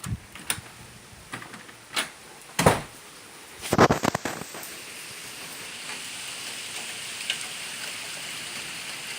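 A few scattered knocks and clicks, then from about halfway a steady hiss of heavy thunderstorm rain that sets in and holds.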